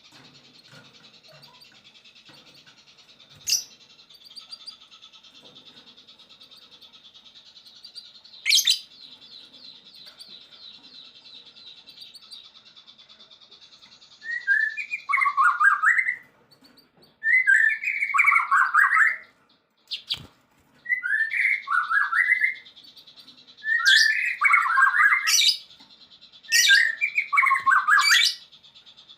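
Songbird song from an 'isian' training recording for white-rumped shamas. A thin, high, buzzy trill runs on with a couple of sharp clicks. From about halfway, loud scratchy song phrases of about two seconds each come five times with short gaps between them.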